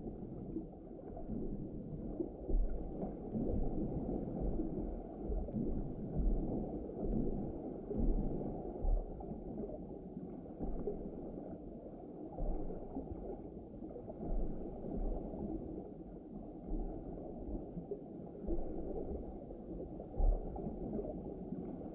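Underwater ambience: a muffled, low water rumble that swells and fades, with occasional low thumps and gurgles.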